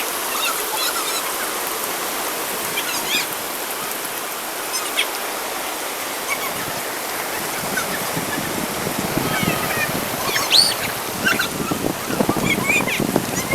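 Rain falling steadily, with scattered short high chirps now and then. Busier and louder from about nine seconds in.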